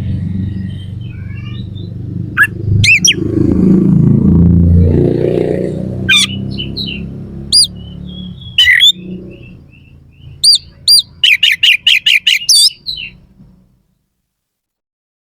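Oriental magpie-robin (kacer) singing loud, sharp notes, with a rapid run of about eight quick notes near the end. A low rumbling noise lies under the first half.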